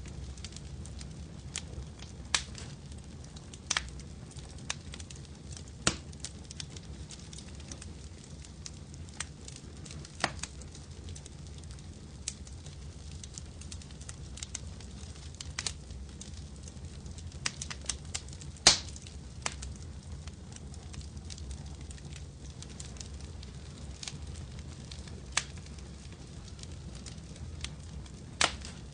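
Wood fire crackling in a fireplace: irregular sharp pops and snaps over a steady low rumble of the flames, with one louder pop about two-thirds of the way through.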